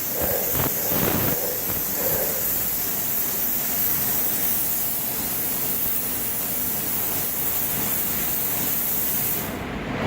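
Paint spray gun spraying clear coat: a steady hiss of atomising air and paint that cuts off suddenly near the end as the trigger is released. The paint booth's fan runs steadily underneath.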